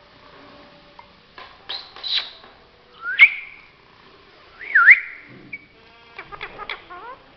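Pet parrot whistling: a few separate whistles, one rising and one swooping down and up, then a quick run of clicks and chattering notes near the end.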